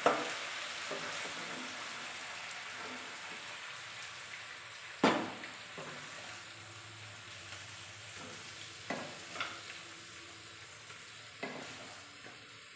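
Hot cooking oil sizzling steadily and slowly dying away after the flame is turned off. A metal spatula scrapes and knocks against the pans as fried chicken pieces are moved, with the loudest knock about five seconds in and a few lighter ones later.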